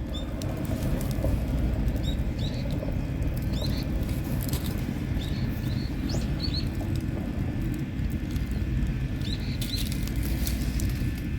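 Campfire of fatwood and firewood burning with a steady low rush and faint crackles, while small birds chirp briefly and often in the background.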